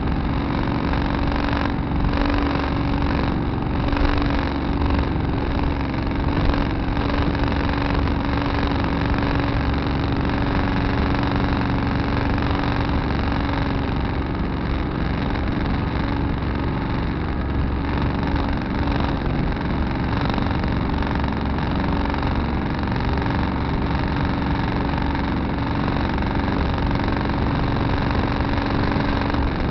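Tractor engine running steadily, heard from the cab.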